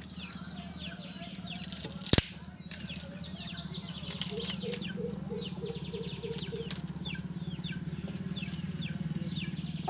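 Small birds chirping over and over, with scattered clicks and one sharp knock about two seconds in, over a steady low hum.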